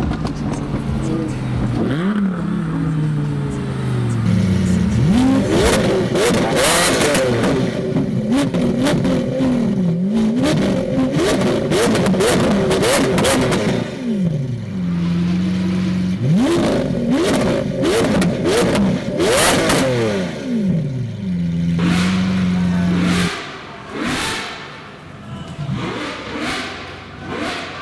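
Supercar engines: first an engine heard from inside the car on track, its pitch stepping down through the gears. Then a stationary supercar revved again and again, the revs rising and falling sharply with crackling exhaust pops between them, settling twice to a steady idle. The last few seconds are quieter, with scattered sharp bangs.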